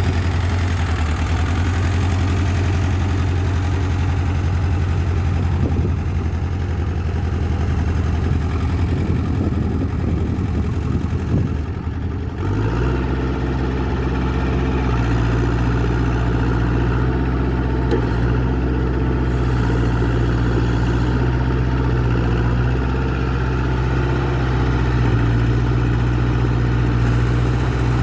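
Ford wheel excavator's diesel engine running at idle, then stepping up to a higher engine speed about halfway through and holding that steady note.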